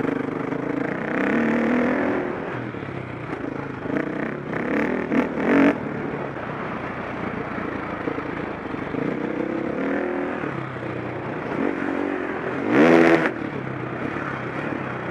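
KTM 525 SX four-stroke single-cylinder motocross engine, ridden on a track with the throttle opening and closing so its pitch keeps rising and falling, and a sharp loud rev about thirteen seconds in. A few loud knocks and clatters come around five seconds in.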